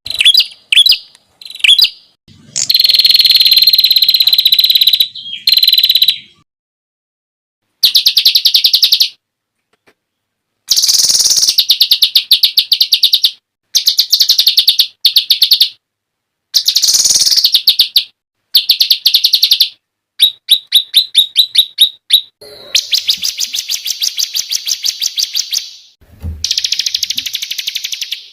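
Small songbird song in rapid-fire 'tembakan' phrases: high, fast trills of sharply repeated notes, each burst lasting one to three seconds, with abrupt silences between them. A brief low thump comes near the end.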